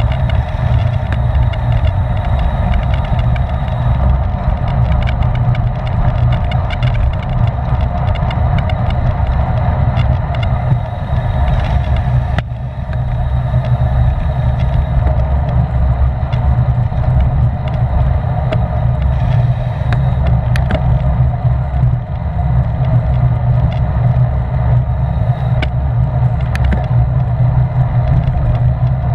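Steady, loud wind rumble on the microphone of a camera riding with a racing bicycle at speed in a criterium bunch, with a steady hum of tyres and drivetrain on the track beneath it.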